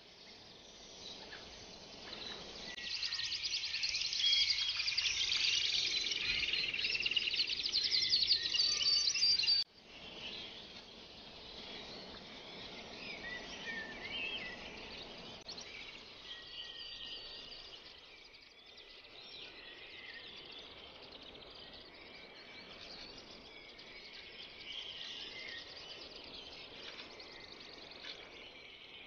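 Birds chirping and twittering, a dense run of high chirps for the first ten seconds or so that cuts off suddenly, followed by sparser, quieter chirping.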